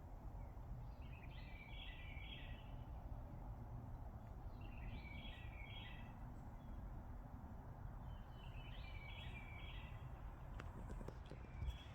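A songbird repeating the same short song phrase about every three to four seconds, over a steady low rush of outdoor background noise, likely the nearby water. A few faint clicks near the end.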